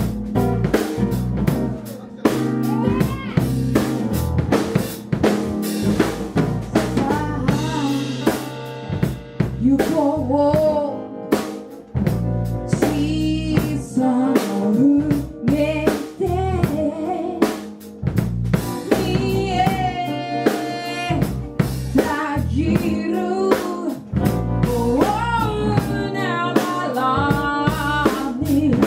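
A band playing a song: a drum kit keeping a steady beat with bass under a bending sung melody.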